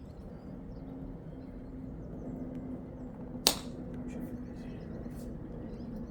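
A single sharp knock of weightlifting gear, the loudest sound, about three and a half seconds in, over a steady low hum.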